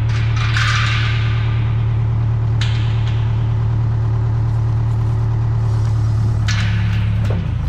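Case 580K backhoe's diesel engine running steadily with a deep drone, with a few short sharp noises over it and a change in engine note near the end as the load shifts.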